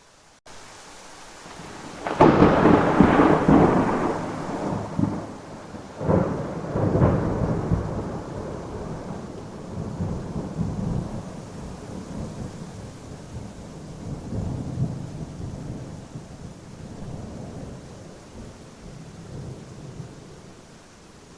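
Thunderstorm: steady rain with a loud thunderclap about two seconds in and a second one around six seconds, each rolling into a long low rumble that slowly fades.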